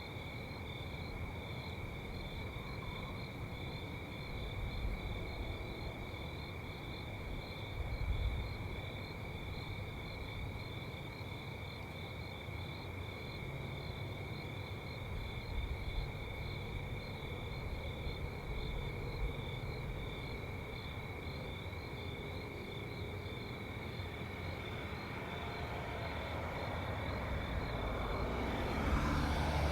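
Crickets chirping in a steady, high pulsing trill over a low rumble, with a car approaching and growing louder near the end.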